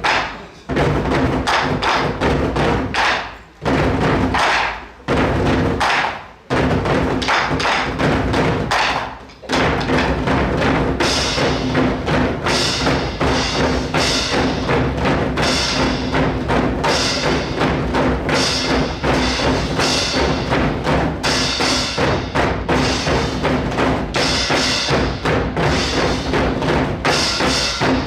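A group nanta performance: many drummers striking drums in unison to recorded backing music. For about the first third the drumming comes in phrases broken by brief pauses, then it settles into a steady, unbroken beat.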